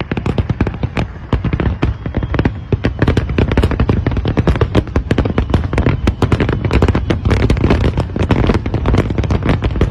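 A fireworks display firing in a dense, rapid barrage of bangs, growing thicker and louder about three seconds in.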